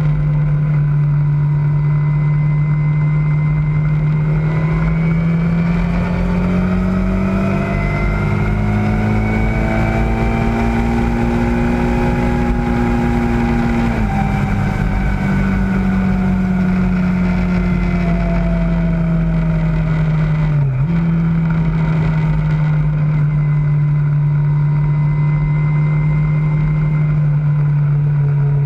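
Kawasaki ZZR600's 600 cc inline-four engine running at steady cruising revs under wind rush, heard from on board the moving motorcycle. The engine note climbs slowly as the bike gently accelerates, drops suddenly about halfway through and eases back down, then dips for a moment, like a quick gear change, about three-quarters of the way through.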